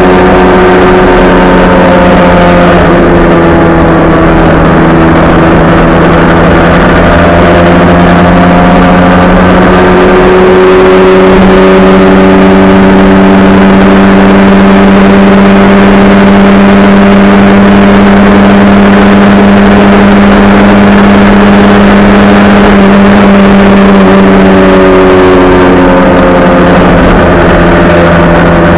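Motorcycle engine running at a steady motorway cruise, its pitch dipping and rising slightly with the throttle, under loud wind and road noise.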